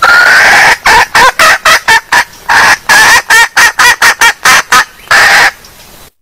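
Junglefowl hen calling, used as a lure call: one long call, then a quick run of short clucks about four a second, and another long call near the end.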